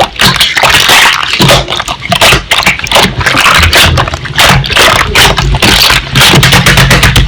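Slime being pressed and squished by hand, with dense crackling and many quick popping clicks.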